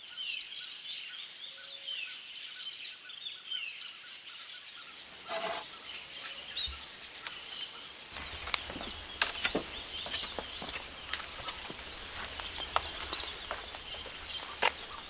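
Forest ambience: a steady high-pitched insect drone with scattered bird chirps. From about halfway, irregular clicks and knocks and a low rumble join in.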